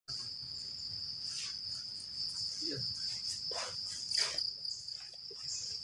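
Forest insects making one steady, unbroken high-pitched trill, with a few faint rustles or taps in the background.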